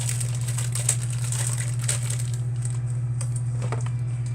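Handling noise: scattered clicks, taps and rustles as objects are moved and set down, over a steady low hum.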